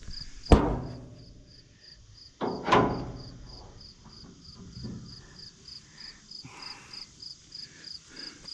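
Steady cricket chirping, about two to three chirps a second, with two loud knocks about half a second and just under three seconds in.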